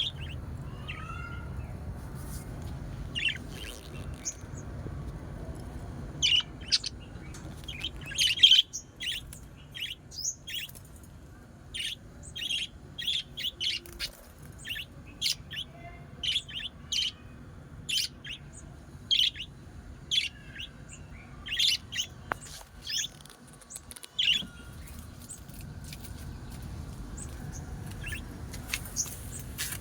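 Pet birds chirping in short, sharp calls, coming thick and fast through the middle and thinning out near the end, over a steady low rumble.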